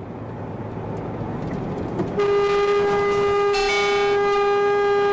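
Vehicle horn sounded in one long, steady blast lasting over three seconds, starting about two seconds in. Road and engine noise from a moving car builds up underneath it.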